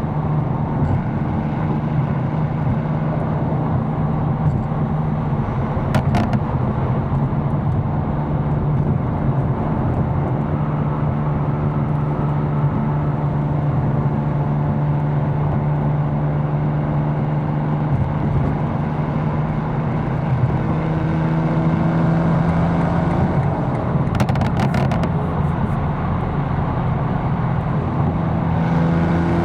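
Tuned BMW M4's engine running steadily at a constant cruising speed, an even low drone, with a few brief clicks about six seconds in and again around twenty-four seconds in.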